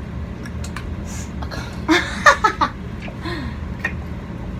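A short burst of laughter about two seconds in, over a steady low background hum and a few small clicks.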